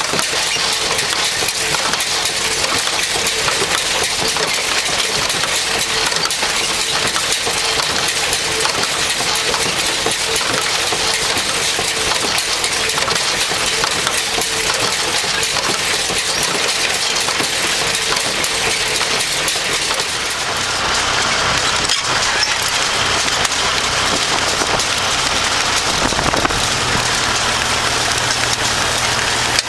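Tractor engine running, buried under heavy wind buffeting and crackling on the microphone. About two-thirds of the way in the engine note changes to a lower, steadier tone, and shifts again a few seconds later.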